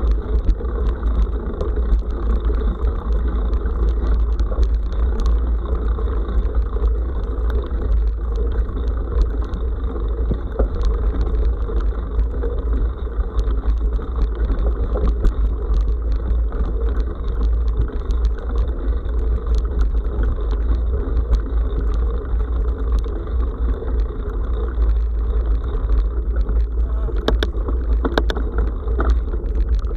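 Bicycle riding on a forest road, heard through an action camera: steady low wind noise on the microphone and tyre noise, muffled, with scattered clicks and rattles from the bike, and a few louder rattles near the end.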